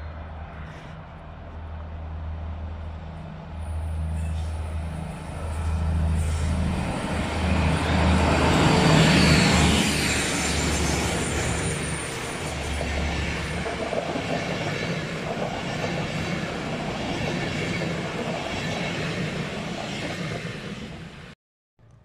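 Diesel locomotive hauling Intercity coaches approaches and passes close by, its engine's low throb growing loudest about nine seconds in, then the coaches rolling past with wheel clatter. The sound cuts off abruptly just before the end.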